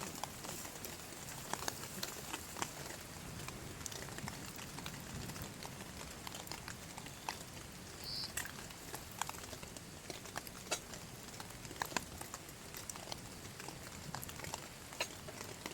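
Rain falling, with individual drops tapping sharply and irregularly on a surface over a steady hiss of rain.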